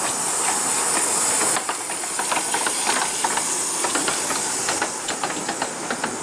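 Narrow-gauge steam locomotive letting off steam with a loud hiss that cuts off suddenly about a second and a half in, followed by a run of sharp clanks and clicks from the locomotive and its carriages.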